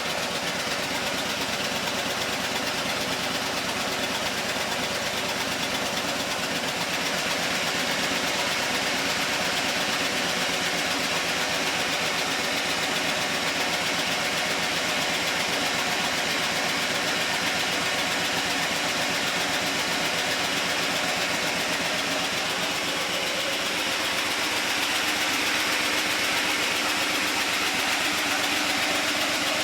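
Smart 600 three-cylinder petrol engine running steadily at idle, started on the ground out of the car. It gets slightly louder a few seconds in and again near the end.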